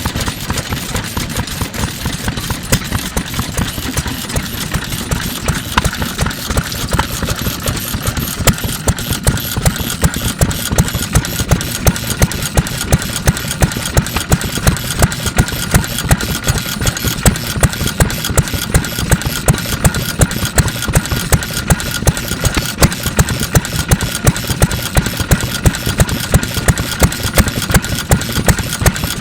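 NATIONAL Type FK 3 hp stationary oil engine from around 1948 running at a slow, steady pace. A sharp exhaust beat recurs a bit under twice a second over its mechanical clatter, and the beat turns stronger and more regular about eight seconds in.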